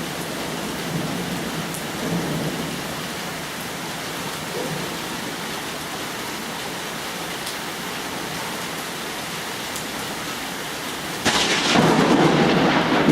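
Steady rain falling, then about eleven seconds in a sudden loud thunderclap from a close lightning strike that keeps rumbling.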